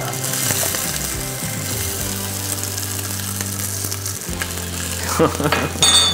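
Embutido roll frying in annatto oil in a nonstick skillet: a steady sizzle. Near the end a short, loud, high-pitched sound cuts in.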